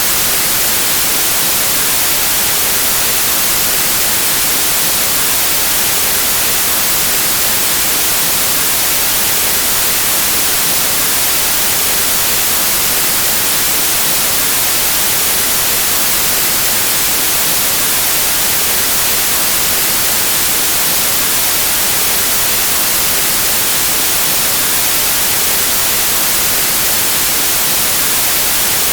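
Steady white noise: an even, unbroken hiss of static with no change in level.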